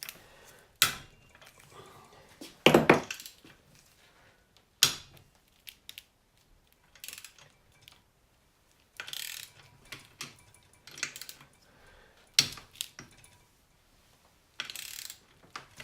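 Hand tools working the rocker cover fasteners of a BMW R80 airhead engine: scattered sharp metal clinks and knocks, with short spells of ratchet clicking.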